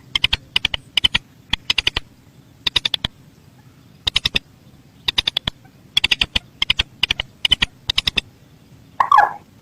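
Mandar sawah (a rice-field rail) calling: quick clusters of three to five sharp, dry clicking notes, repeated over and over at uneven spacing, with one lower, downward-sliding squawk near the end.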